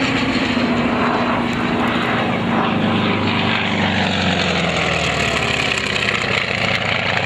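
Radial-engined WWII propeller fighter flying past, a steady engine drone that slowly drops in pitch as it goes by.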